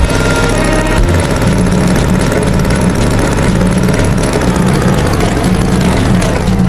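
Tractor engine sound effect running steadily with a loud, even low rumble.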